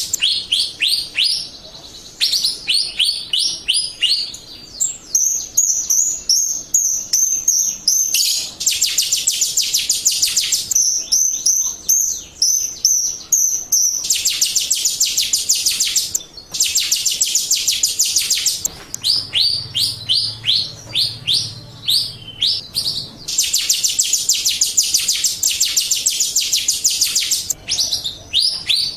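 Jalak Rio starling singing: long runs of rapid, sharp, downward-sweeping chirps, several a second, broken by stretches of dense, very fast chattering.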